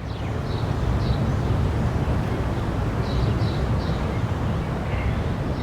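Loud, steady low rumble of outdoor street noise, with a few short high chirps over it.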